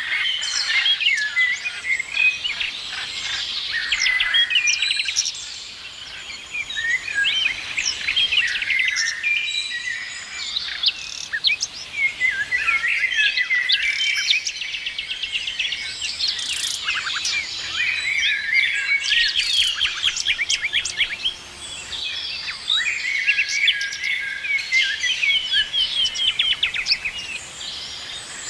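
A chorus of several songbirds singing and chirping at once, with overlapping quick whistled notes, rapid trills and short chirps going on without a break.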